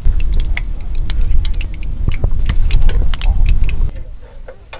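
Strong wind buffeting the microphone in a heavy low rumble, with many sharp snaps and clicks mixed in. It drops away suddenly about four seconds in.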